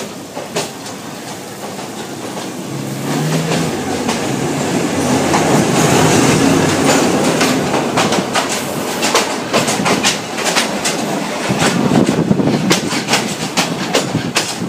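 Another Yangon Circular Railway train passing close alongside. A rumble builds to a peak as its locomotive draws level, then a fast, irregular clatter of wheels over rail joints runs on as its coaches go by.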